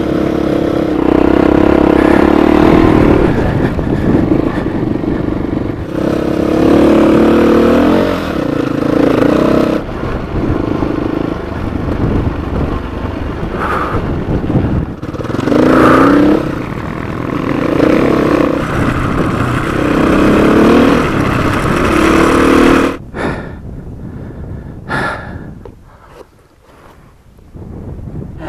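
Rally motorcycle engine heard through a helmet camera, revving up and easing off repeatedly as it rides through the gears. About twenty-three seconds in the engine falls away to a much quieter spell, with a few sharp knocks.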